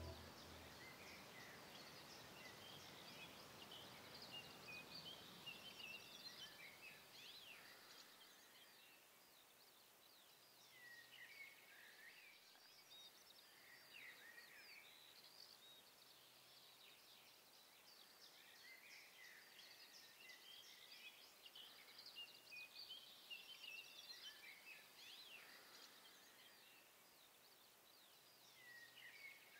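Faint birdsong: many birds giving quick high chirps and short trills, coming and going, over a light background hiss.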